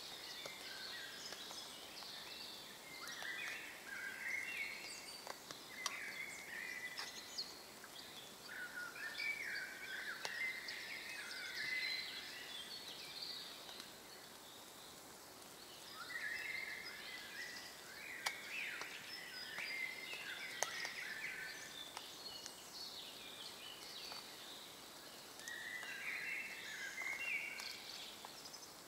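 Woodland birds singing, with warbling phrases of a second or two coming again and again, and several songs overlapping. A few faint sharp clicks are heard.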